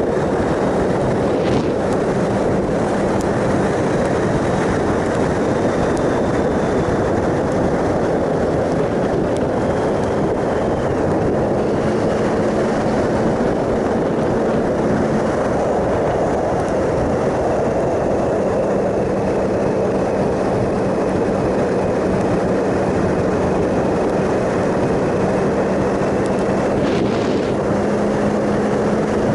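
Onboard sound of a 2007 Triumph Sprint ST 1050's three-cylinder engine at a steady cruise, under a heavy rush of wind and road noise. The engine note holds nearly constant, shifting only slightly a few times.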